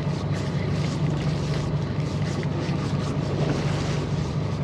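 Fishing boat's engine running at a steady hum, with wind and water noise over it.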